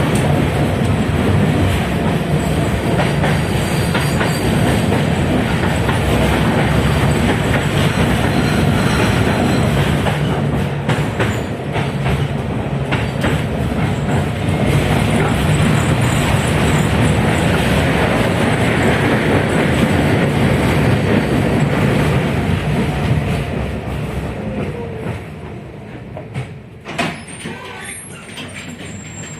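71-619KT tram car running along the track: steady loud rumble of wheels on rail with rattling, heard from on board. It eases off after about 24 seconds as the tram slows, with a single knock a few seconds later.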